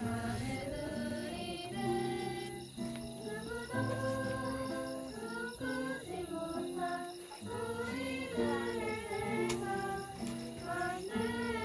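A group of children and an adult singing a song together, with sustained low accompaniment notes under the voices.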